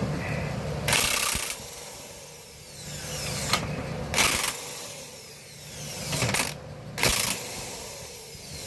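Power drill driving a socket on bolts in about four short bursts, its motor whining down after each trigger release.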